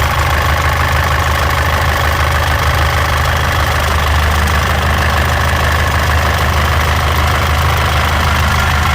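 Mitsubishi L200 Triton 3.2 four-cylinder turbo-diesel idling steadily, with a rattlesnake-like rattle from its timing chain. The chain is worn and slack.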